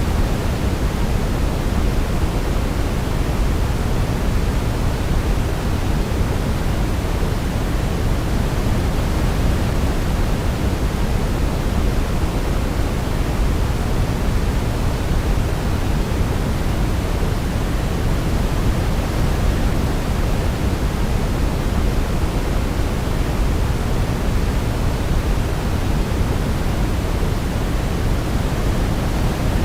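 Steady sleep-aid white noise: an even, unbroken hiss weighted toward the low end, with no melody heard over it.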